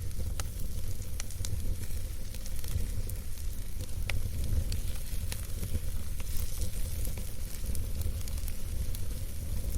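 Wood campfire burning, a steady low rumble of flames with scattered sharp crackles and pops from the burning wood.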